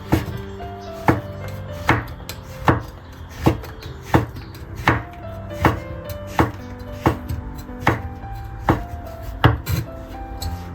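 A knife chopping on a cutting board at a steady, unhurried pace, about thirteen strokes a little under a second apart, over background music.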